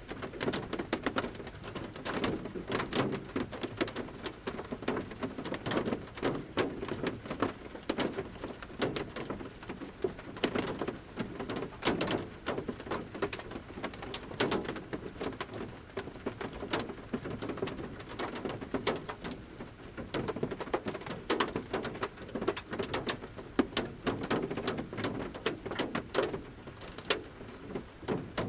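Light rain, with large drops from the forest canopy falling at irregular intervals onto the roof of a camper van, heard from inside. Many sharp, uneven taps sound over a steady light patter.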